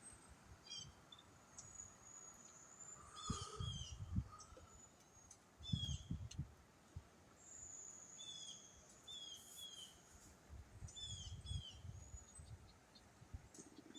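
Small songbirds chirping and calling over and over, short falling notes mixed with a few long, thin high whistles. Gusts of wind rumble on the microphone every few seconds.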